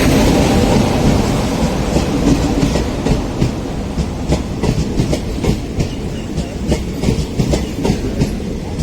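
Passenger train passing close by: a steady heavy rumble, with a rapid irregular clatter of wheels over rail joints from about two seconds in.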